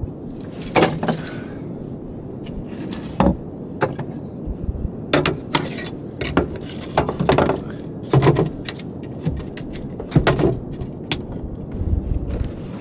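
A series of irregular clatters and knocks, about one a second, over a steady low rumble.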